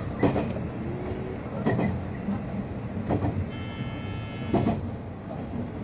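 Inside a JR 103-series electric multiple unit running on jointed track: a steady rumble of running noise, with a clack of the wheels over a rail joint about every one and a half seconds. A brief high steady tone sounds for about a second a little past the middle.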